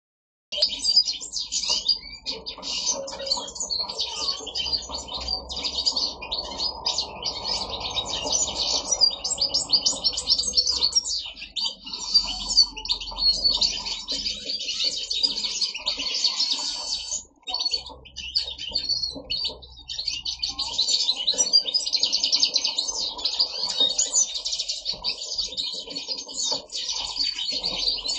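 A mixed chorus of aviary finches singing together: European goldfinches with siskins, a canary and chaffinches, in a dense, continuous, high twittering, with a brief lull about seventeen seconds in.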